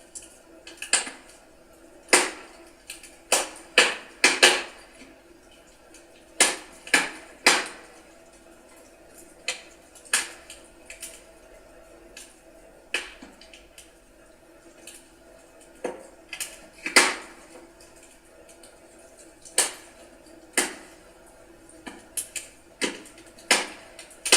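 Wood fire crackling: irregular sharp pops and snaps of burning firewood, scattered at uneven intervals over a faint steady hiss.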